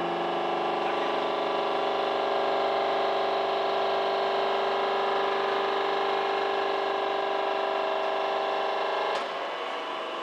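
Tire recycling line machinery running with a steady hum of several fixed tones. About nine seconds in, the hum drops and changes to a quieter, rougher sound.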